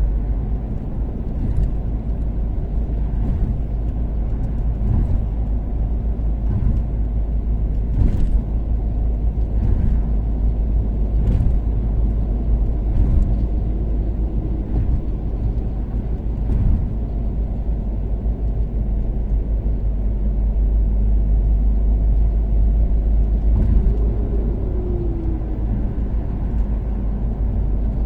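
Toyota Caldina's 3S-GTE turbo four-cylinder cruising at expressway speed, a steady low engine and road rumble with occasional short thumps from the road surface. A short falling tone sounds near the end.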